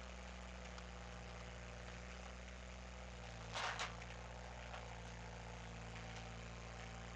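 Skid steer engine running steadily, powering the hydraulic wood splitter, with a brief sharp double burst of noise about halfway through.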